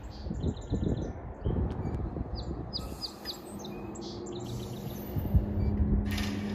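Small birds chirping in quick runs of short, falling chirps over the low rumble of a Kawasaki M8 electric train standing at the platform. A steady hum joins about halfway through, and a brief hiss comes near the end.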